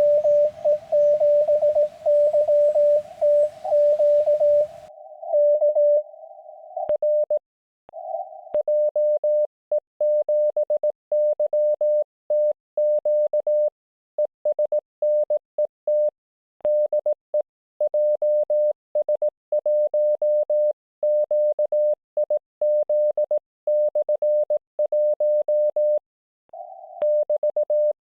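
Morse code (CW) tones from an Icom IC-705 transceiver on the 7 MHz amateur band: a single pitch near 600 Hz keyed on and off in dots and dashes. For about the first five seconds the tone comes with band hiss, as a received signal. Then the hiss cuts out and the keying goes on as a clean sidetone while the set sends.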